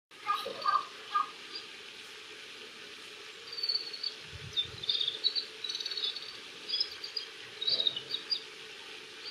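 Oriental greenfinch singing: a run of short, high twittering notes starting about three and a half seconds in, with a few lower notes in the first second or so.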